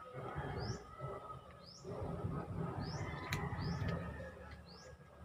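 Close chewing and mouth sounds of a person eating milkfish with her fingers, in uneven bursts. A bird gives short rising chirps over and over in the background, about seven in all.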